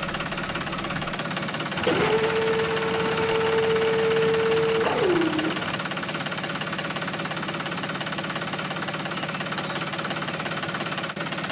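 Small engine or motor running steadily. About two seconds in, a steady held tone joins it for about three seconds and drops in pitch as it stops.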